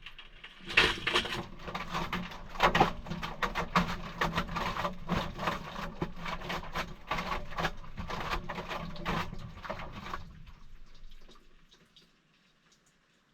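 Maytag washing machine running its cold wash cycle: water sloshing and splashing with a load of wet towels over a steady motor hum. It winds down and stops about ten seconds in.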